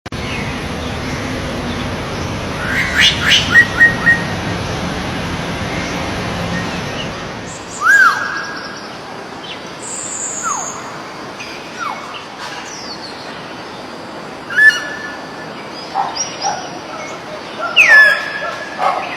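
Songbirds chirping and calling: scattered short chirps and clear whistled notes that slide down in pitch, several in a row around the middle, over a steady background hiss that eases off about seven seconds in.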